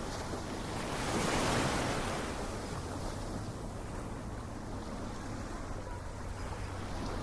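Ocean waves, one swelling and breaking about a second in, then washing back into a steady surf hiss.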